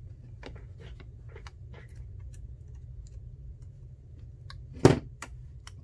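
Small scattered clicks and taps of tools and small phone parts being handled during a phone repair, with one sharper, louder click about five seconds in, over a steady low hum.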